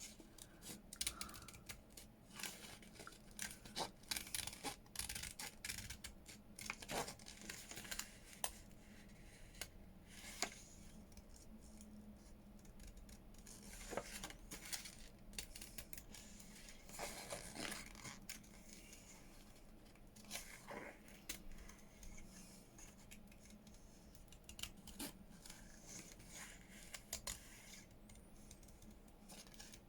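Small craft scissors snipping paper in irregular runs of quick short cuts, with brief pauses between runs.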